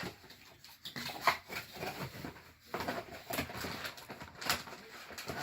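Cardboard packaging being handled and opened: irregular rustles, scrapes and clicks.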